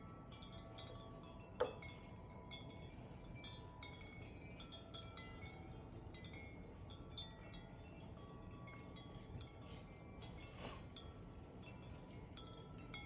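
Wind chimes ringing irregularly in gusty wind, their metal tubes sounding overlapping tones over a steady low rumble of wind. A sharp clink comes about one and a half seconds in.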